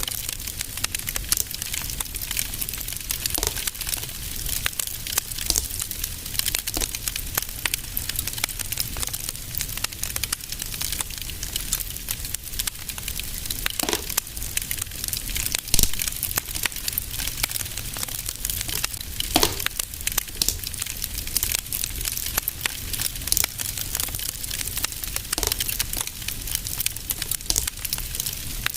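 Fireplace fire crackling: a dense stream of small crackles over a steady low rumble, with a few louder pops, the loudest about 16 seconds in.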